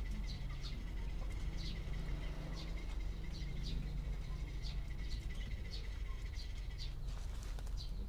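Small birds chirping: short, high chirps at an uneven pace, a few each second, over a steady high-pitched tone that stops about seven seconds in.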